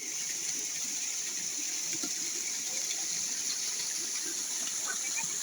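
A waterfall rushing steadily, a continuous high hiss of falling water.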